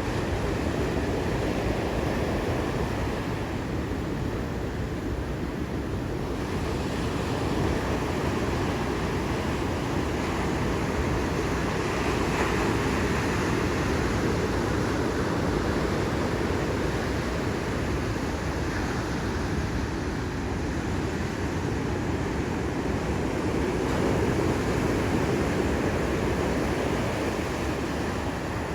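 Ocean surf breaking in a steady wash that swells and eases gently, with wind rumbling on the microphone.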